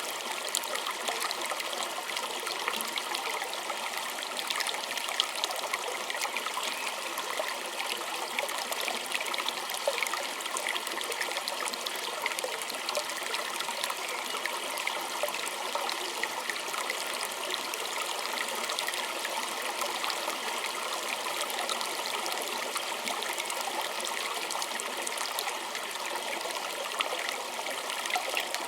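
A small stream trickling and babbling steadily over stones, a constant wash of bright water noise dotted with many small splashes and droplets.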